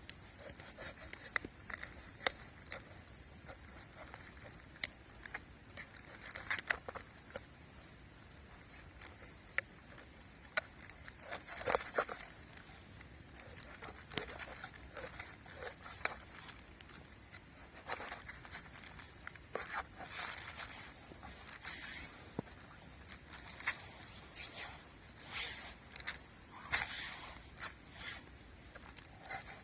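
Irregular sharp clicks and short scratchy, crinkling scrapes, some spells busier than others.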